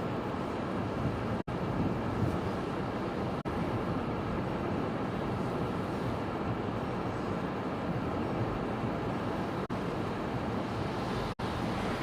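Steady rushing noise of storm wind and sea, without separate events, cutting out for an instant a few times.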